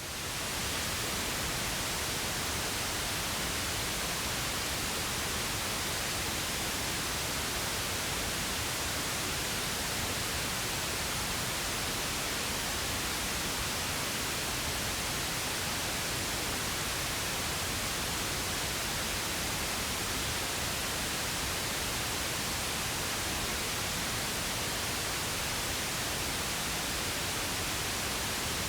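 Steady pink noise: an even, unchanging hiss spread across all pitches, fading in at the very start.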